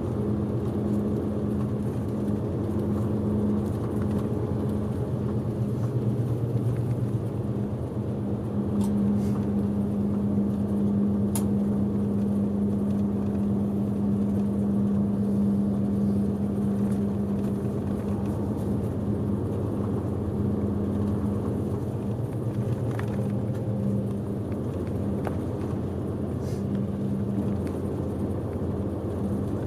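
Diesel engine and road noise of a bus heard from inside the cabin while driving: a steady low drone with a constant hum.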